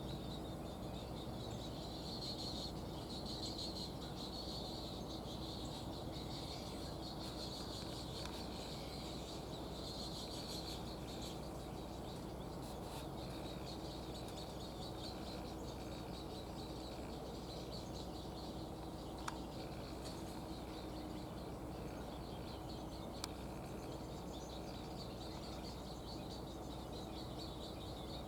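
Birds calling at a breeding colony: a rapid, pulsing high chatter, strongest in the first half, over steady outdoor background noise with a faint steady hum. Two brief clicks come in the second half.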